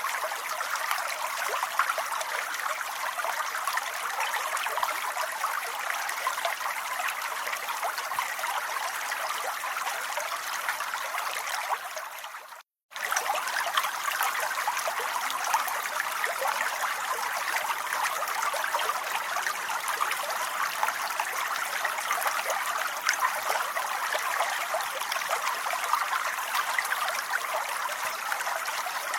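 Steady rain falling, a dense even patter of drops. About halfway through it fades briefly, cuts out for half a second, then comes straight back as before.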